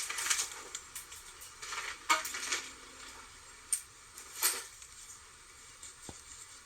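Scattered light clicks, clinks and rustles, as of small objects being handled, after a rustling hiss that fades in the first second.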